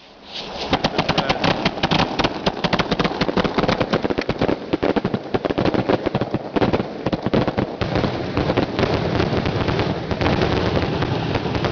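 Fireworks going off in rapid succession, a dense string of sharp cracks and pops starting about half a second in. After about eight seconds the cracks blend into a near-continuous crackle.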